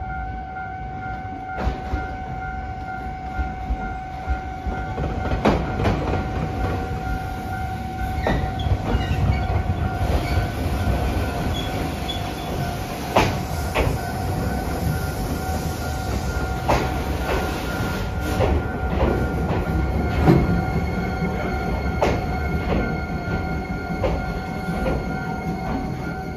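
Iyotetsu 3000 series electric train pulling into a platform and coming to a stop, its running rumble rising as it nears, with repeated sharp clacks of the wheels over rail joints and points. A steady warning tone rings throughout.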